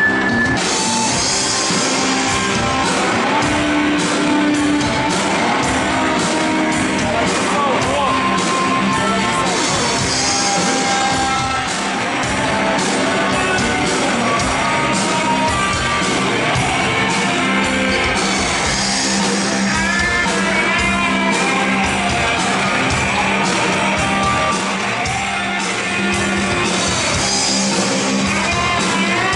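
Rock band playing loudly, with a steady drum beat, electric guitar and shouted singing.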